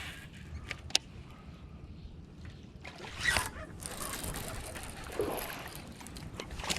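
Water splashing and sloshing at the side of a fishing boat, with a sharp click about a second in and a louder splash a little after three seconds.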